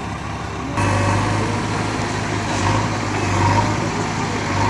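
Tractor diesel engine running with a steady low hum. It gets suddenly louder a little under a second in.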